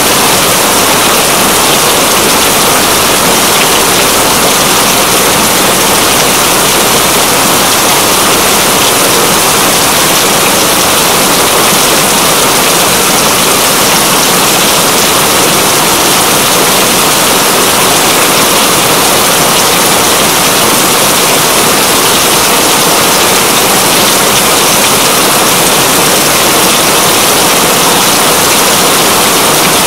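Steady, loud rain: a dense, unbroken hiss of heavy rainfall.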